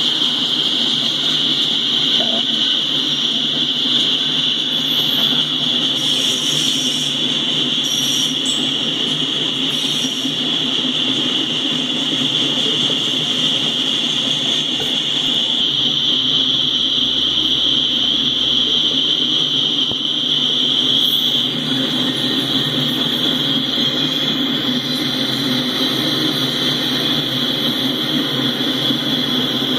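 Freight train of autorack cars rolling steadily past: continuous wheel-on-rail rumble with a constant high-pitched tone over it.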